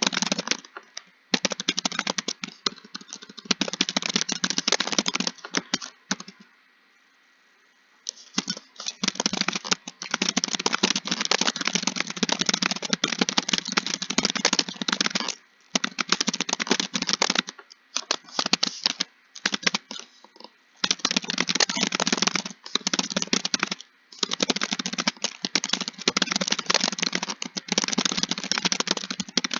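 Computer keyboard typing in fast runs of keystrokes broken by short pauses, the longest about six seconds in.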